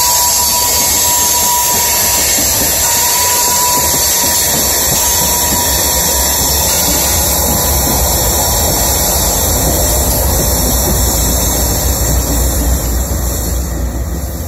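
Loaded coal hopper cars rolling past with a steady high screech of wheel friction against the rail. A rear-end distributed-power diesel locomotive then passes with a low engine rumble, and the noise fades as the end of the train goes by near the end.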